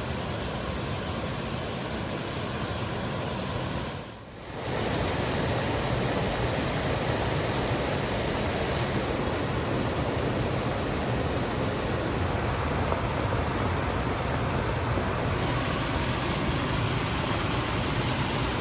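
Steady heavy rain falling, an even hiss with a brief dip about four seconds in.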